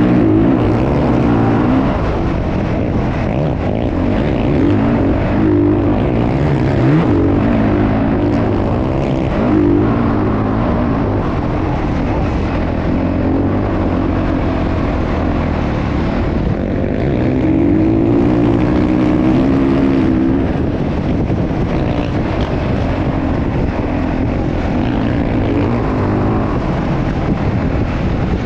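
Motocross bike engines running and revving, the pitch rising and falling again and again.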